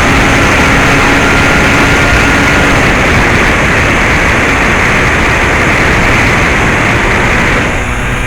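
Bixler 2 RC plane's brushless electric motor (NTM 35-30A, 1400kv) driving a 9x6 propeller in flight, picked up by the onboard camera as a loud, steady whirr mixed with wind rush. A faint steady whine sits in the first few seconds, and the level eases slightly near the end.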